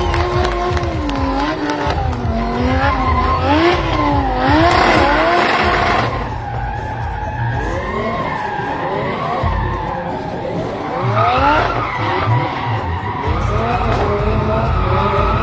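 Lamborghini Huracán drift car's V10 engine revving hard, its pitch climbing and dropping again and again as it drifts, with tyres skidding and squealing; the tyre noise is loudest about four to six seconds in.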